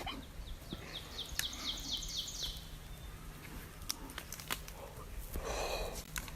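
A bird giving a rapid series of short rising chirps, about four or five a second for two seconds, over scattered faint clicks and a low steady hum.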